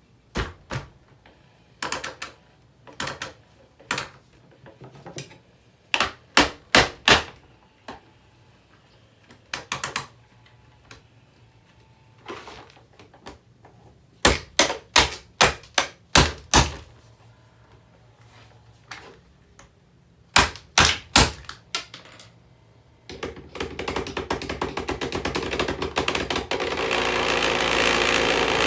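Sharp knocks and strikes on a plastic table fan, coming in quick clusters of three or four, then a dense rapid rattle starting about 23 seconds in and growing louder: the damaged fan clattering as it runs.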